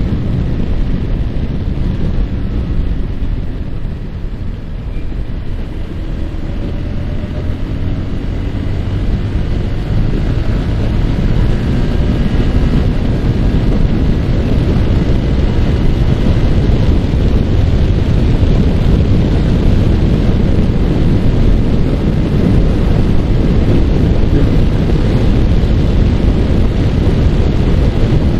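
Heavy wind buffeting on the microphone over the running single-cylinder engine of a Yamaha R15 sport motorcycle at road speed. The noise eases a little about four seconds in, then builds back up as the bike picks up speed.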